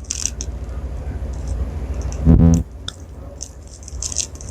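Soft scratchy rustling of an eyeshadow brush and clothing close to a clip-on microphone, over a steady low rumble, with a short hummed 'mm' a little over two seconds in.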